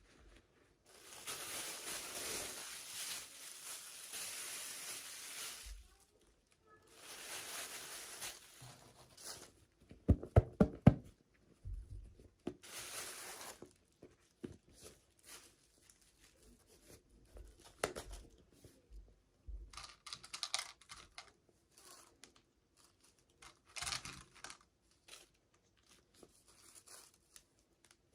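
Toy packaging being torn open in three long rips, then a few sharp clicks and scattered crinkling and tapping as the package and its contents are handled.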